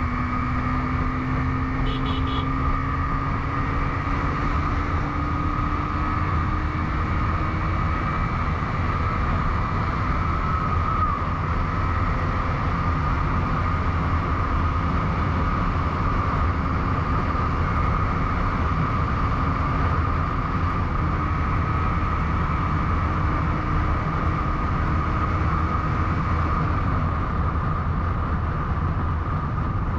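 Motorcycle engine running at road speed under a continuous rush of wind and road noise. Its pitch climbs slowly over the first several seconds, and again from about two-thirds of the way through before dropping back.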